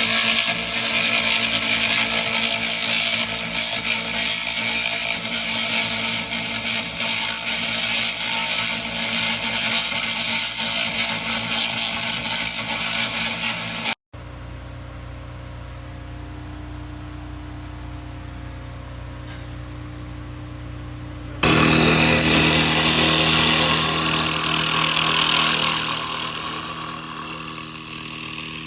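SFX 2000 laser rust remover working on metal: a loud, steady crackling hiss as the laser strips rust, over a steady machine hum. Halfway through the hiss breaks off suddenly, leaving only the hum. It comes back loudly about three quarters through, then fades near the end.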